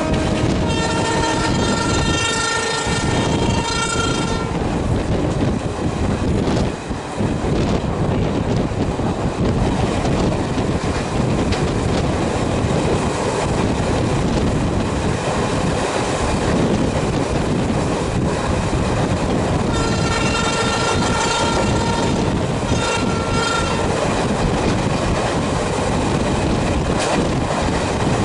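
Steady rumble and wheel clatter of an express train passing close alongside at speed. A long train-horn blast runs for the first four seconds or so, and two shorter blasts come about twenty seconds in.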